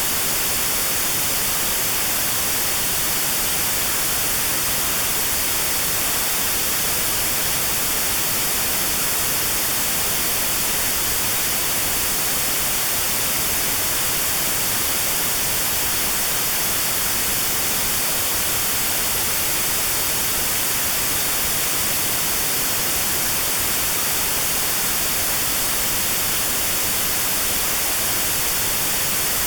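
Steady white noise, electronically generated, with a narrow band around 4 kHz filtered out: notched sound therapy for tinnitus at that pitch. The hiss is constant and unbroken.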